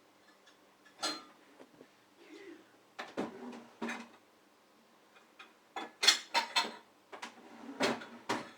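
Dishes and utensils clinking and clattering as a dishwasher is unloaded: scattered knocks and clinks, with a quick run of clatters about six seconds in.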